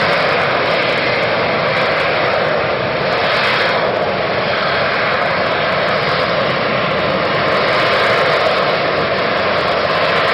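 Aircraft engine noise from an airplane flying at an air display, a loud, steady rushing drone.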